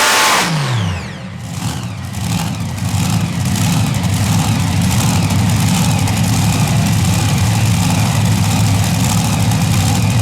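Super Modified pulling tractor's engines come off full power about half a second in, their pitch falling fast, then settle into a loud, steady low idle.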